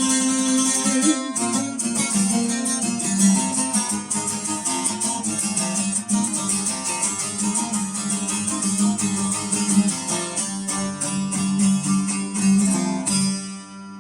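Instrumental music on a plucked string instrument: quick, rhythmic picked notes over a steady held low note. Near the end the plucking stops and the low note rings on.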